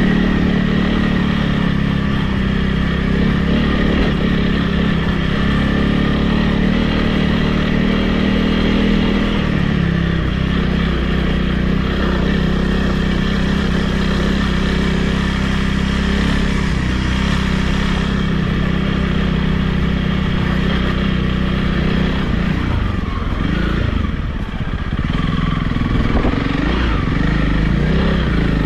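Honda CRF300 Rally's single-cylinder four-stroke engine running under way at fairly steady revs. Its pitch shifts about ten seconds in, and it rises and falls several times near the end as the throttle is eased off and opened again.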